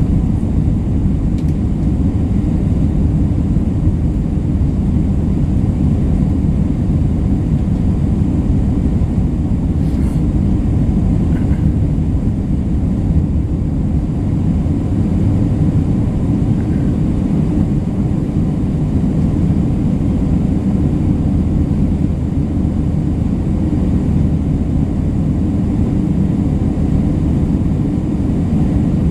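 Steady low drone inside an Airbus A320 cabin in flight: engine and airflow noise, even throughout.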